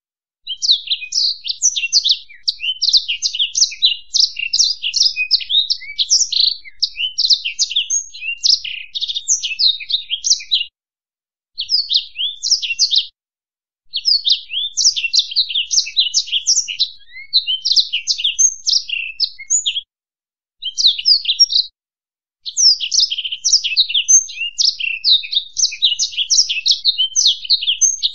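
A finch singing a fast, high twittering song in long unbroken phrases, with four short pauses.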